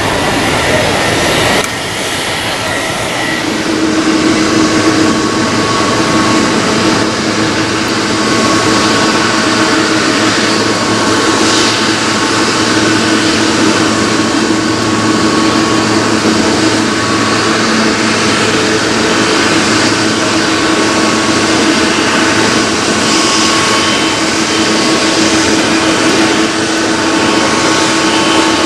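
Jet airliner's turbofan engines running loud and steady, a whine of steady tones over a rumbling roar; it dips briefly about two seconds in and builds back up by four seconds.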